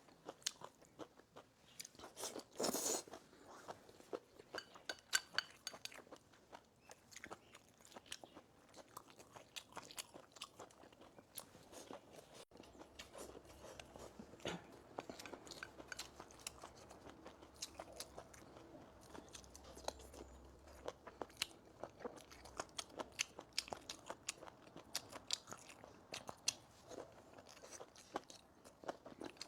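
A person eating close to the microphone: soft, irregular chewing with many small crunchy bites. A louder bite comes about three seconds in.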